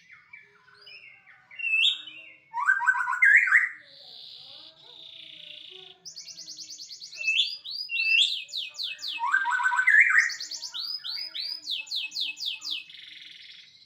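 White-rumped shama (murai batu) singing a loud, varied song: clear whistles, a buzzy note, and runs of rapid repeated notes.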